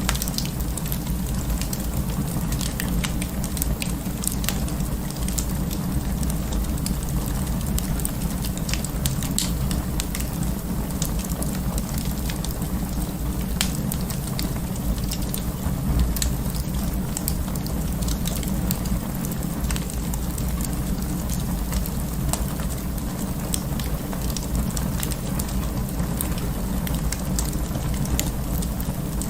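Wood fire in an open fireplace crackling: a steady low rumble of the flames with frequent sharp, irregular pops and crackles.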